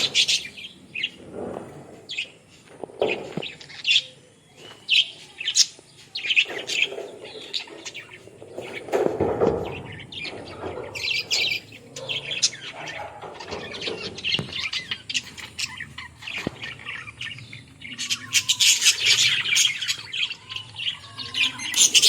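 Flock of budgerigars (Australian parrots) chirping and chattering in many short high calls. The chatter grows denser and louder near the end.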